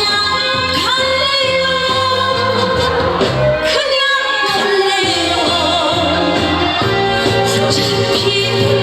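A woman singing a trot song over amplified backing music, her sung line wavering above a steady bass accompaniment.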